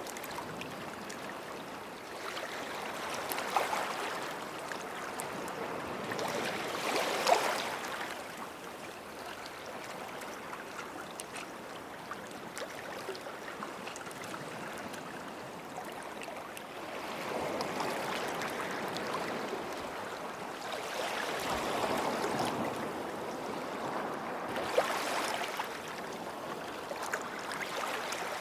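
Small sea waves lapping and washing at the shoreline, a steady wash that swells louder about five times, with a few sharp splashes as wavelets break.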